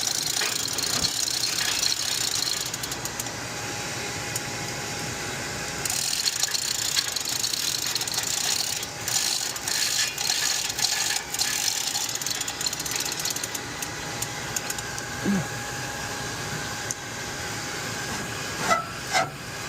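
Steady mechanical background noise with scattered metallic clicks and rattles from hand tools working on metal, clustered about halfway through, and a few short knocks near the end.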